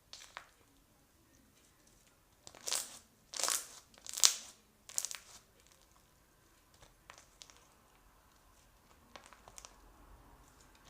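Slime being squeezed and pressed by hand for ASMR. It gives a cluster of loud crackly, squelching pops about two to five seconds in, then only a few small scattered clicks.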